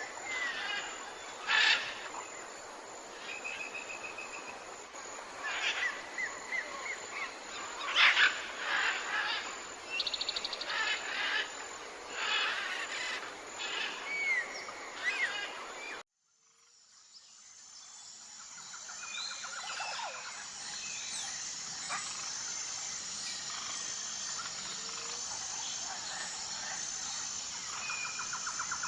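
Many wild birds chirping, trilling and calling over a steady background hiss. About halfway through the sound cuts off abruptly, and a different outdoor recording fades in: insects chirping in high, evenly spaced pulses, with a few scattered bird calls.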